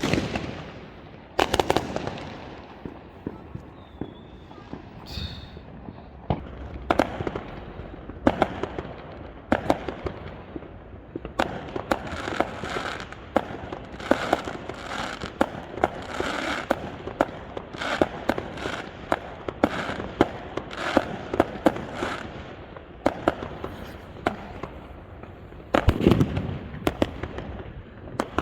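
Fireworks display: aerial shells bursting with sharp bangs one after another, and a long stretch of dense crackling in the middle. A heavy burst comes near the end.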